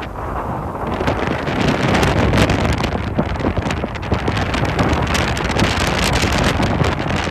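Hurricane Ida's wind gusting hard across the microphone: loud rushing with constant buffeting, growing stronger about a second in.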